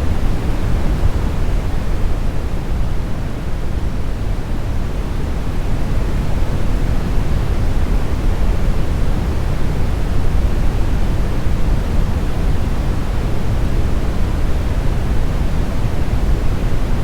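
Synthetic smoothed brown noise: a steady, deep rumbling hiss with its energy concentrated in the low end and little treble.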